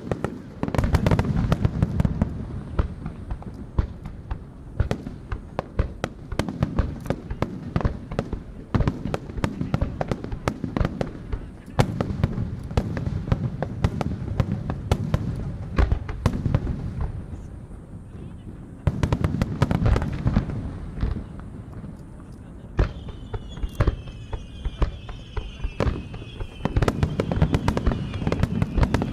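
Aerial fireworks bursting in rapid, continuous succession: deep booms mixed with sharp cracks and crackling. Several high falling tones, like whistles, run through the last few seconds.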